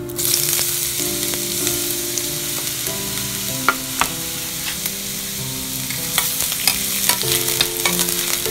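Chopped garlic and diced onion sizzling as they hit hot oil in a frying pan, the hiss starting abruptly. A slotted spatula stirs them, clicking and scraping against the pan, more often near the end.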